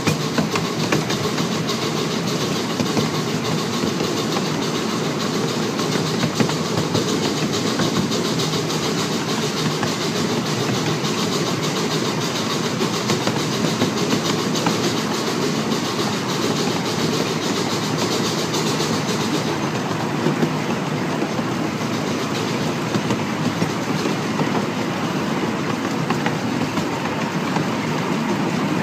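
Small narrow-gauge steam train running along the track, heard from aboard: a steady rumble of wheels on rail with scattered clacks at the rail joints. The high hiss eases about two-thirds of the way through.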